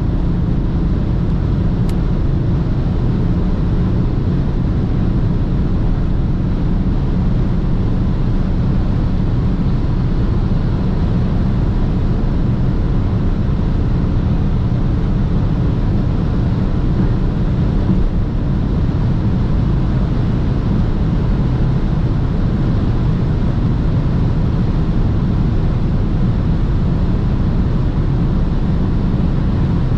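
BMW 330d's six-cylinder turbodiesel running under a steady load at Autobahn speed, its low drone mixed with a constant rush of tyre and wind noise.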